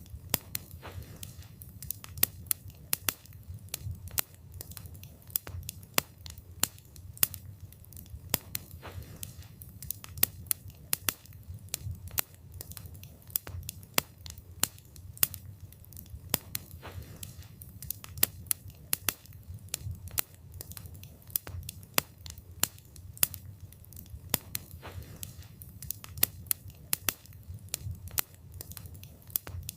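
Wood fire burning with frequent sharp crackles and pops of burning wood, several a second at irregular spacing, over a soft low rumble of the flames.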